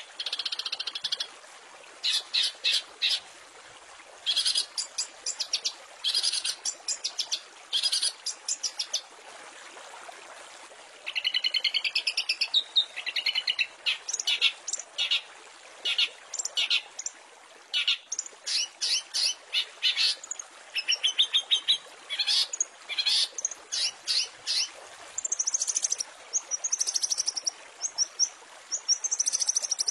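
Long-tailed shrike (cendet) singing a fast, varied song: repeated bursts of harsh rapid chattering and buzzy trills separated by short pauses, turning to a series of clear high whistled notes near the end. A steady hiss runs underneath.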